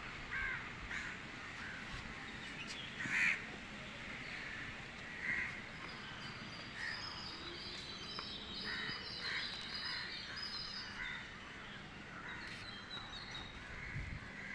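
Crows cawing now and then, a series of short separate caws, with faint chirping of smaller birds in the middle stretch.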